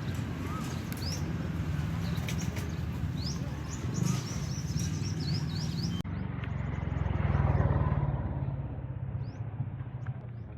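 Small birds chirping in short rising notes over a steady low rumble. About six seconds in the sound changes abruptly, and a low rumble swells and then fades.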